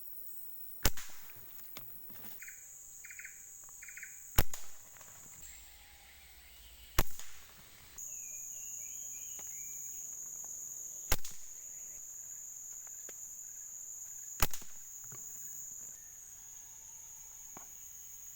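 Five sharp shots, spaced about three to four seconds apart, typical of an air rifle firing at pigeons, over a steady high buzz of insects.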